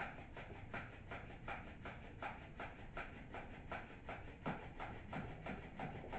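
Feather bird wand toy swished back and forth through the air in quick regular strokes, a little under three a second, with a few soft thuds about two thirds of the way through.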